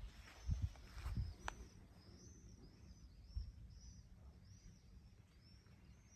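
A small bird calling over and over, short high arched chirps about two a second. A few low thumps cut in during the first second or so and once more partway through.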